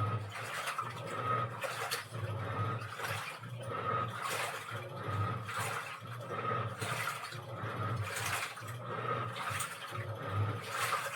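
Washing machine running a wash cycle: water sloshing in the turning drum, with a surge about once a second over a low motor hum.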